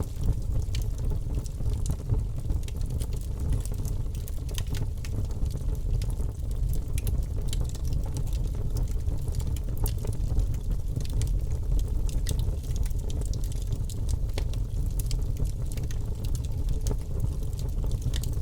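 Wood fire crackling in a fireplace: a steady low rumble of burning with frequent small, irregular pops and snaps.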